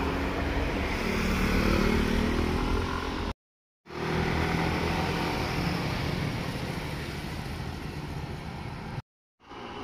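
Motorcycle engines passing on a road, in short clips broken by two brief silent cuts. In the first clip the engine rises in pitch as it accelerates; in the second the engine note is steadier and slowly fades.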